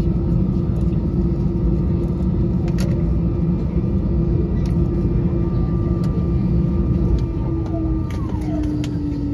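Airbus A320-214 cabin noise from a window seat: a steady low rumble under a steady engine whine. About eight seconds in, the whine starts to drop in pitch as the CFM56 engines slow.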